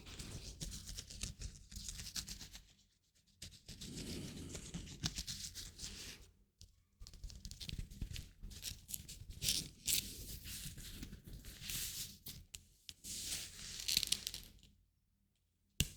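Close-miked crinkly rubbing and rustling from hands working in ASMR style, in bursts of a few seconds with brief pauses between.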